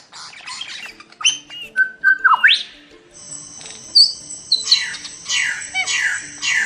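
A bird calling: short whistled notes and rising glides, then a run of quickly repeated harsh, downward-sweeping calls from about two-thirds through. Soft background music plays underneath.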